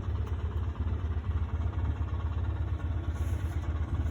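Steady low rumble of an idling engine, running evenly throughout.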